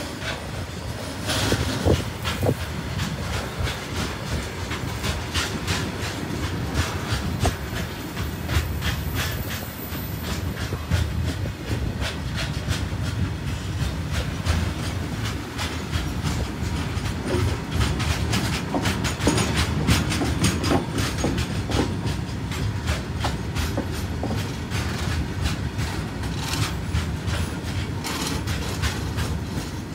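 Container freight train rolling past: a steady low rumble of wagon wheels, with irregular clicks and clacks as the wheels pass over rail joints.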